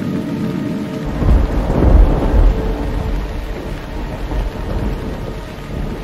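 Thunder rumbling over a steady musical drone: the rumble breaks in about a second in, is loudest around two seconds and dies away slowly.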